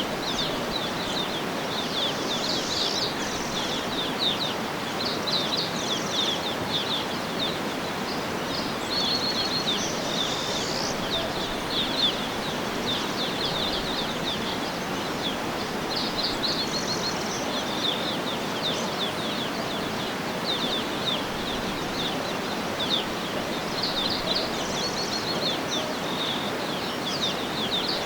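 Songbirds chirping and trilling continuously with short, quick high notes, over a steady rushing background noise.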